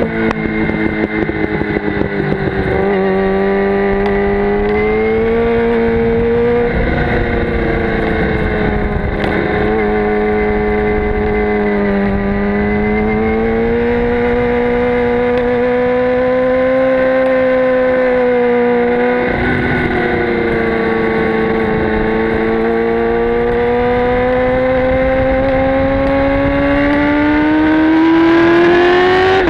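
Sport motorcycle engine under way, heard close up from the tail of the bike, its note rising and falling gently with the throttle through corners and climbing as it revs up near the end, with wind noise over the microphone.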